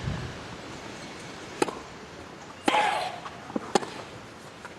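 Tennis ball sounds on court: a few sharp knocks, one about a second and a half in and two close together near four seconds, with a short voice-like shout just under three seconds in.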